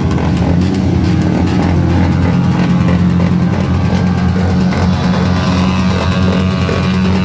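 Many motorcycle engines running together, mixed with music.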